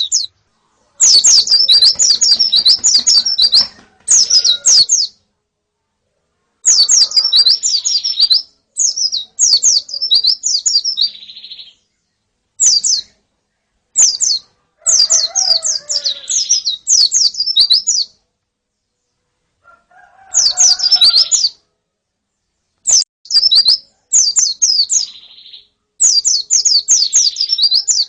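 White-eyes (pleci), a female and a flock, calling in quick runs of thin, high downslurred chirps. The runs last from a moment to a few seconds, with short silent breaks between them.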